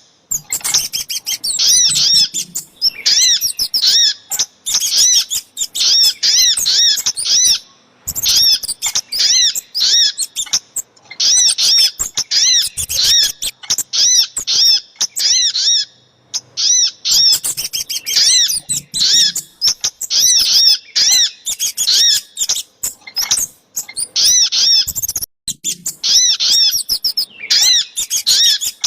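Bird-lure recording of little spiderhunter (sogok ontong) and kemade calls: rapid runs of high, sharp chirps in bursts of a few seconds, with brief pauses between them.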